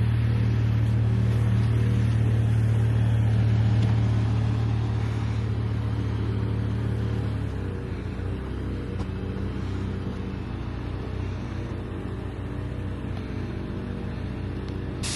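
A car's engine idling with a steady low hum. The deepest part of the hum eases off about halfway through.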